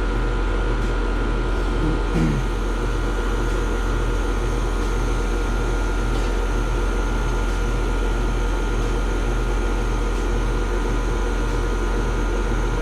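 Outdoor condensing unit of an Amana split-system air conditioner running steadily: the newly replaced compressor and the condenser fan make a constant low hum with a pulsing throb.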